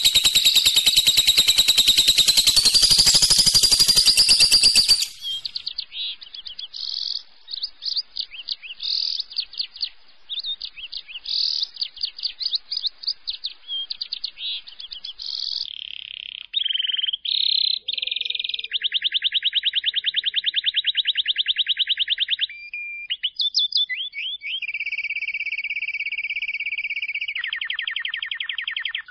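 Lovebird ngekek: long, very rapid chattering trills of high repeated notes. It opens with a loud, dense trill that lasts about five seconds, then goes on in shorter bursts and longer rattles.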